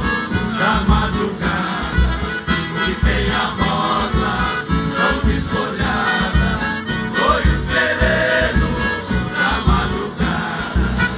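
Live Brazilian country (caipira) music from an orchestra, with voices singing together over a steady bass beat.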